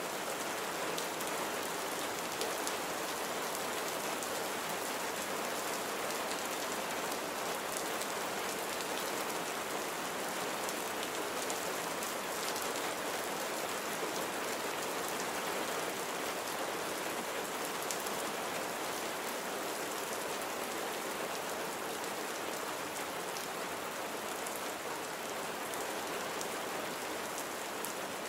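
Steady rain falling: a constant, even hiss with faint ticks of single drops.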